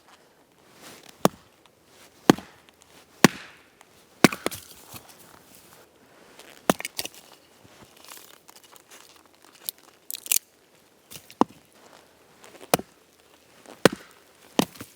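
Firewood being chopped: a string of about a dozen sharp blows of a blade into wood, irregularly spaced about a second apart, with splintering and crackling of wood between them.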